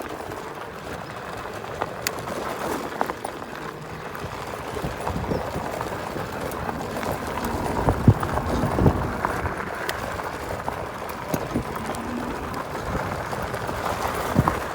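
Chaos GT 1600 W electric scooter ridden over rough ground on off-road tyres: a steady rush of tyre and riding noise with irregular knocks and rattles from bumps, the heaviest thumps about eight and nine seconds in.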